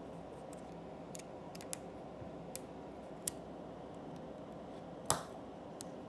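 A handful of short, sharp plastic clicks, scattered and the loudest a little after five seconds in, over a steady low hum: 3D-printed plastic parts being handled and snapped together.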